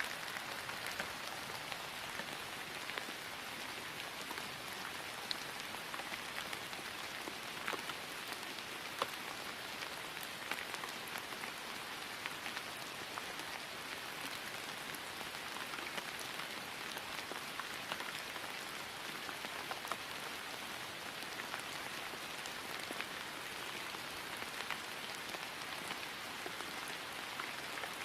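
Steady rain falling on grass, an even hiss with scattered individual drop taps.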